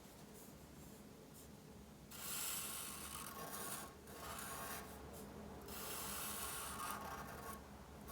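A drawing tool rubbing and scratching across paper. Quiet at first, then several long scribbling strokes starting about two seconds in, like colouring or shading.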